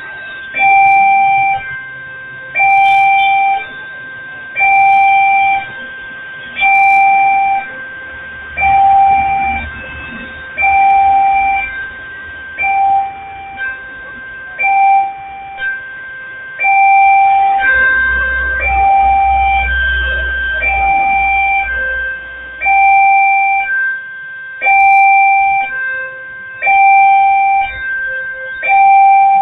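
Railway level-crossing warning alarm sounding over and over, one electronic tone about every second. A low rumble joins it twice, about a third of the way in and again past the middle.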